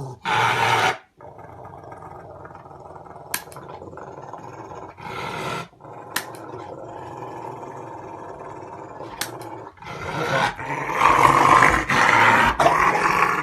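A dog growling in rough bursts, loudest and longest in a sustained stretch of several seconds near the end, with a few short sharp clicks in between.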